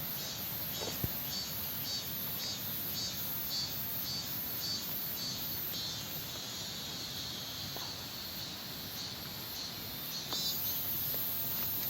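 Insects calling in a forest valley: a high-pitched pulsing at about two pulses a second, which turns into a continuous high buzz near the end, over a steady background rush.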